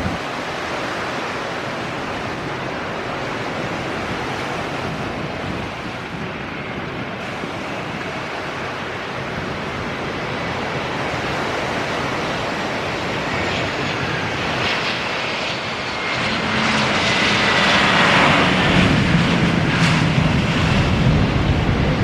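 Airliner on landing approach passing close by: its engine noise swells over the last several seconds, with a whine that falls in pitch as it goes past.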